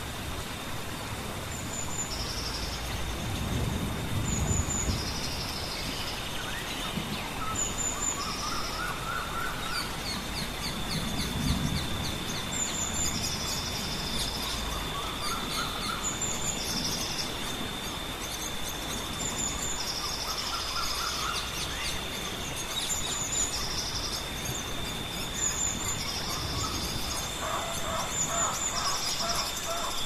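Wild birds calling: a high, short call repeated every second or two, with a few lower rising phrases, over a steady high-pitched insect drone and a constant background hiss. Twice there is a brief low rumble.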